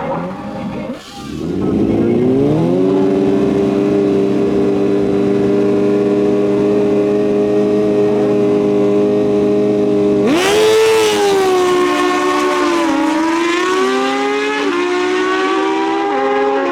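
Stock sportbike drag-racing engines held at a steady high rev on the line, then launching hard about ten seconds in. After the launch the pitch climbs and steps down several times at each upshift.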